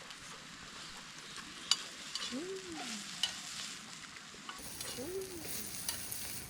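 Food sizzling in a frying pan, a steady hiss, with a few sharp clicks of utensils against it.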